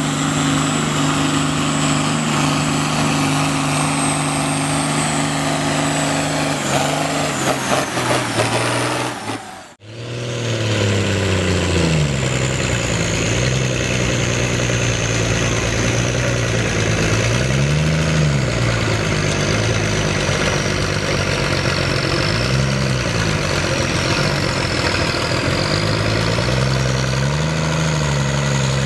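Tractor engine running hard, its note steady for the first several seconds. After a sudden break near ten seconds it comes back with repeated rises and falls in pitch as the load and revs change, with a thin high whine above it.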